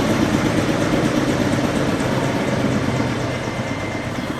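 Helicopter rotor and engine noise, steady and pulsing, slowly getting quieter as the helicopter carries a slung load of rooftop equipment away.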